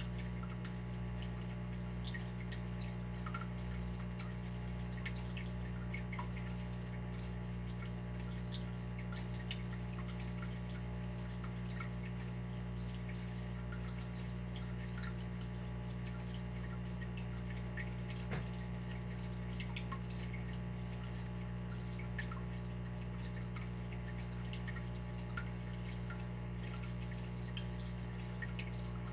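Water trickling steadily with many scattered small drips over a constant low hum.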